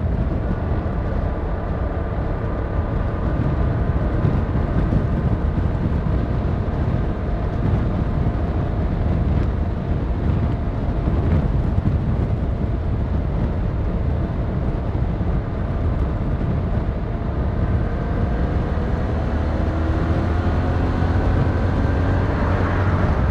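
Yamaha MT-07's 689cc inline-twin engine running under way with a steady rush of wind and road noise; the engine note holds fairly even, then rises over the last few seconds as the bike accelerates.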